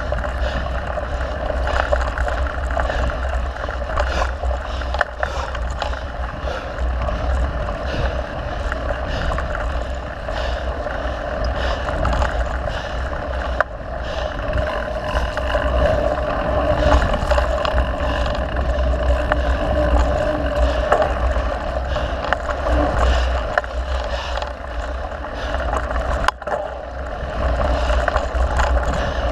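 Mountain bike rolling along a dirt trail: a steady low rumble and rattle with many small clicks and knocks from the bike and tyres over the ground.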